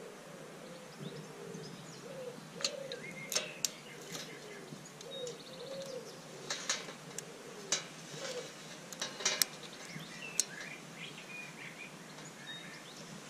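Garden birds calling: a low call that rises and falls, repeating through the first half, and higher chirps from small birds. Several sharp clicks from the wire rack being handled.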